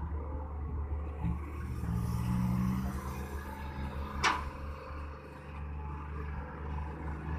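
Heavy diesel engine running steadily, from the excavator or a dump truck at the pit. A single short, sharp metallic clank or squeal about four seconds in.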